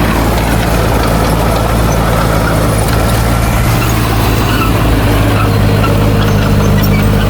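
Heavy earthmoving machine's diesel engine running steadily with a low, even drone. Its tone shifts slightly about five and a half seconds in.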